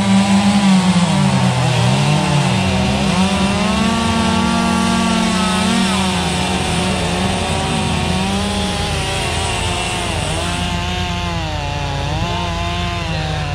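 Holzfforma two-stroke chainsaw running under load, cutting wood. Its engine pitch dips and recovers several times as the chain bites and frees.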